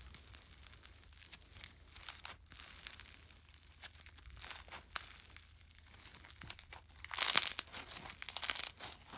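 Foam slime full of small foam balls being squeezed and pressed, giving dense fine crackling and popping, with a louder burst of crackles about seven seconds in.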